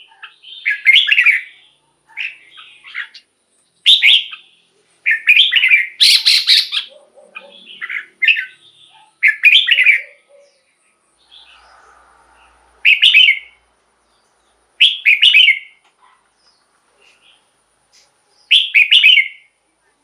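Red-whiskered bulbul singing: short, quick phrases of bright whistled notes repeated with gaps, closely spaced at first and further apart in the second half.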